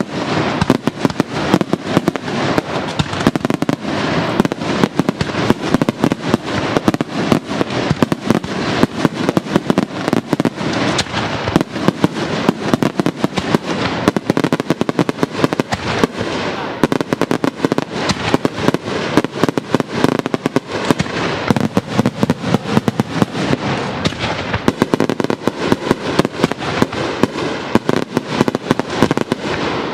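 Daytime fireworks shells bursting overhead in a continuous, rapid barrage of sharp bangs, many a second without a break.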